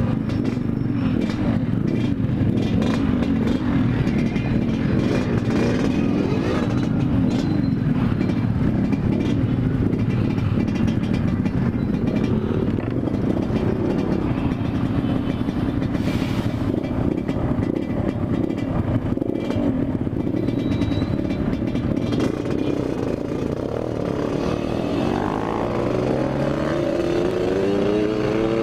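Yamaha RX-King's single-cylinder two-stroke engine running under way at steady speed with wind rush, then revving up with rising pitch near the end as the bike accelerates.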